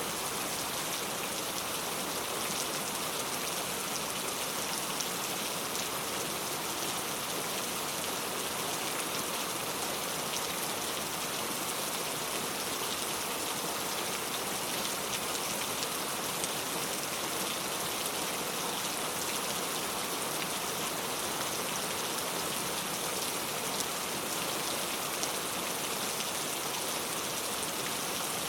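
Heavy rain falling steadily: a dense, even hiss of rain with many small drop ticks.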